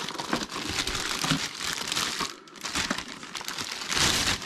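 Plastic packaging wrap crinkling and rustling as it is handled, in uneven surges with the loudest near the end.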